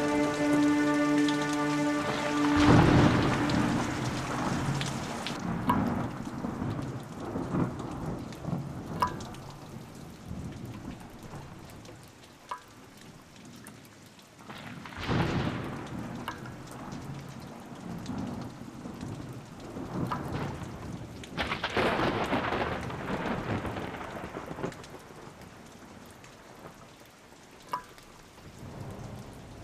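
Heavy rain falling steadily with thunder: a loud thunderclap about three seconds in, and further rolls of thunder around the middle and again later.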